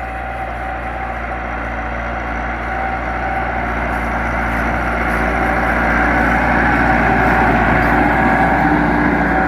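Massey Ferguson 385 tractor's diesel engine running steadily while pulling a cultivator, growing gradually louder over several seconds.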